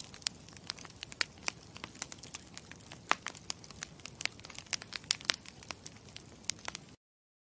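Campfire crackling: irregular sharp pops and snaps over a low, steady rush of burning wood. It cuts off abruptly about seven seconds in.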